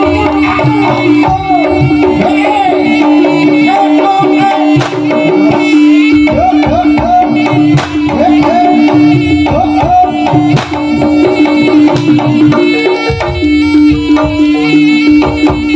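Live jaranan accompaniment music: hand drums beat a fast, driving rhythm under a steady held tone, and a melody line bends and wavers over it.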